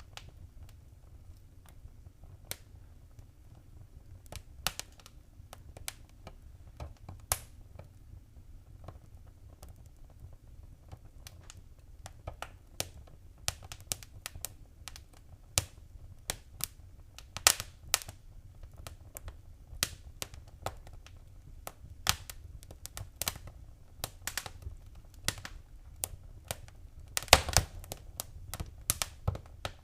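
Wood fire crackling in a fireplace: irregular sharp pops and snaps over a low steady rumble, growing busier in the second half with a burst of pops near the end.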